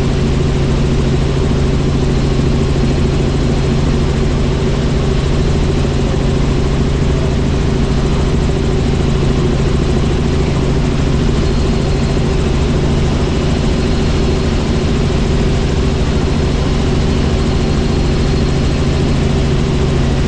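Helicopter in steady flight: rotor and turbine engine running with an even, unchanging drone.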